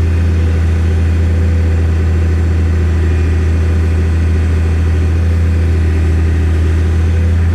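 Excavator's diesel engine running steadily with a loud, even low hum, working to pull out a firmly set pile.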